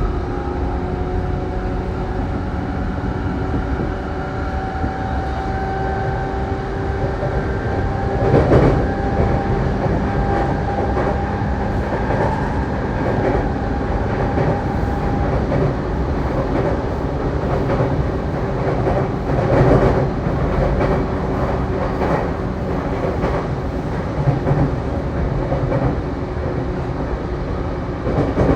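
Saikyo Line electric commuter train running between stations, heard from inside the car: a steady rumble of wheels on rail under a motor whine held at a few steady pitches. Two louder knocks stand out, about a third of the way in and again about two-thirds in.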